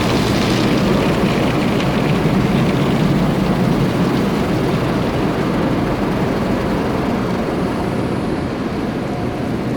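Automatic car wash equipment running with a steady rushing noise that eases off slightly near the end.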